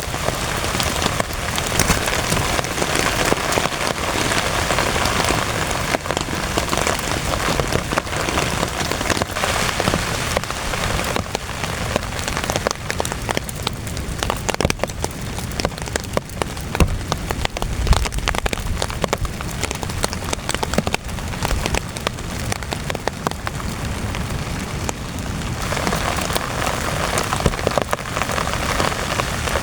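Heavy rain pattering on a tent, a dense mass of individual drop hits. It is heavier at the start, eases through the middle and picks up again near the end.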